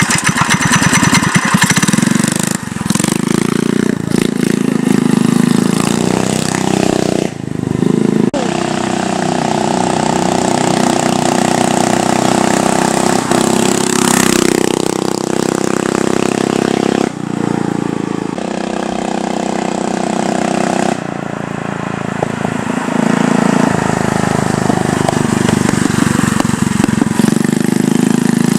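Honda GX160 single-cylinder four-stroke engine of a homemade minibike running and revving, with abrupt changes in sound a few times where clips are cut together.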